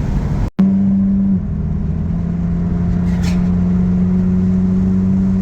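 Exhaust drone of a Honda Civic with a muffler delete, cruising at a steady speed, heard from inside the car with a window open: a steady, low droning tone. The sound cuts out briefly about half a second in, and the pitch drops slightly just after a second in.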